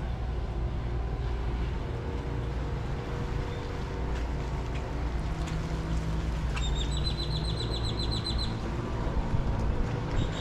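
Steady low rumble of harbour ambience. About two-thirds of the way in, a bird gives a rapid trill of about a dozen high chirps lasting under two seconds.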